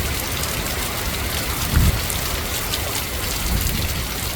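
Heavy wind-driven rain pouring down steadily, blown sideways at high velocity, with a low rumble that swells briefly about two seconds in.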